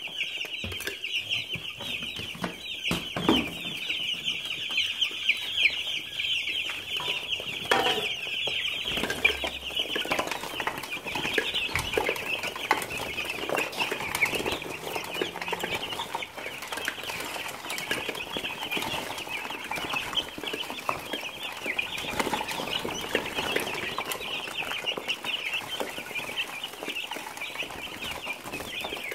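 A flock of about thirty meat chickens calling noisily and without a break: a dense chorus of high cheeping with clucks mixed in, fuller from about a third of the way in. This is the hungry morning clamour of birds whose feed was taken away overnight. A couple of sharp knocks sound in the first several seconds.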